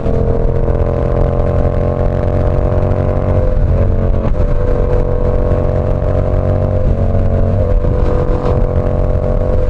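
Yamaha R7's parallel-twin engine through an SC Project CR-T exhaust, running steadily under way with its note drifting slightly in pitch. The note is interrupted briefly a few times in the middle.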